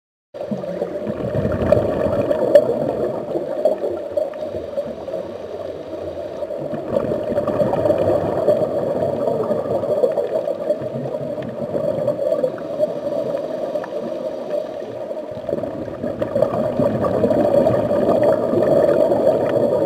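Underwater ambience: muffled, steady gurgling and rushing of water, starting about half a second in.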